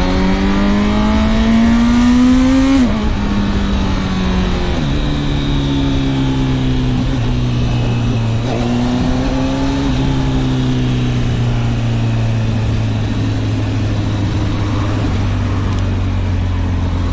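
Honda CB1000 Hornet SP's inline-four engine under way, rising in pitch as it accelerates, then dropping sharply about three seconds in and falling again a couple of seconds later. It then runs at a steady lower pitch, with a brief rise and fall around the middle, under a steady rush of wind and road noise.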